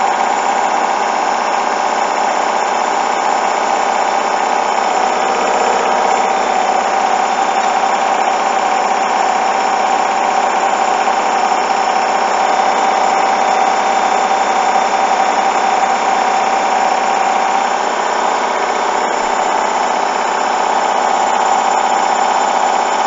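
Hoover washing machine spinning a load of bedding at high speed, a steady whine from the motor and drum; the load is unbalanced on the final 1400 rpm spin.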